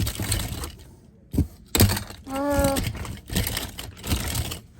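Handling noise from picking through toy cars: rustling and clattering in several bursts with sharp clicks, and a short pitched squeak about halfway through.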